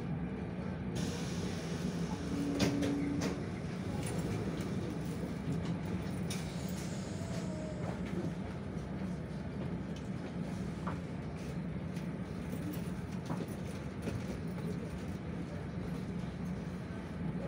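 Steady low hum inside a standing commuter train carriage, with one short low tone about two and a half seconds in.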